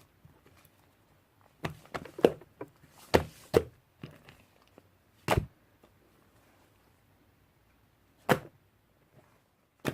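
A series of short, irregular taps and knocks, about nine in all: a quick cluster of them from about two to four seconds in, then single knocks near the middle and at the end.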